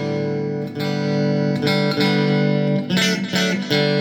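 Electric guitar played through a Roland Micro Cube battery amp: chords strummed and left ringing, a new strum about every second.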